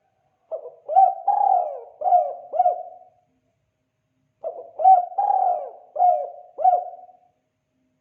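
Spotted dove (tekukur) cooing in the 'kuk 2' call style used as a lure call: two matching phrases of several coo notes, the second starting about four seconds after the first.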